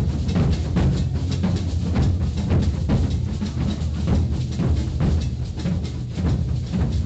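Maracatu drum ensemble playing a steady, driving rhythm: deep bass drums under rapid snare-drum strokes, without a pause.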